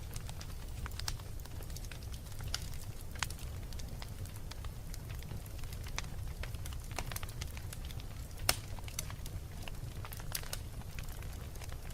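Wood fire in a fireplace crackling: scattered sharp pops and snaps over a steady low rumble, with one louder pop about eight and a half seconds in.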